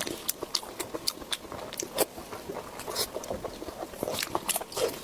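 Close-miked chewing and wet mouth sounds: an irregular run of sharp clicks and smacks.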